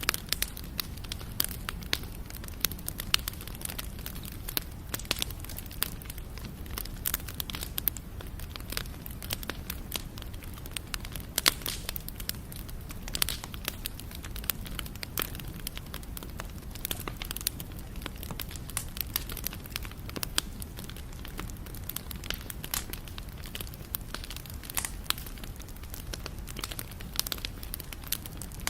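Wood campfire crackling: irregular sharp pops and snaps, many per second, over a steady low rush of the burning fire.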